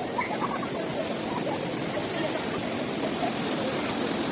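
Steady rush of a spring-fed stream of water flowing and cascading.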